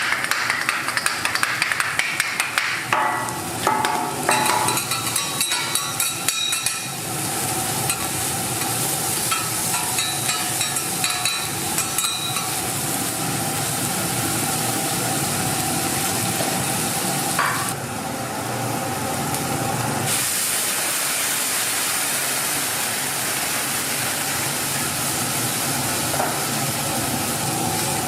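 Egg fried rice frying in a hot pan: a metal spatula clanks and scrapes rapidly for the first several seconds, then a steady sizzle carries on.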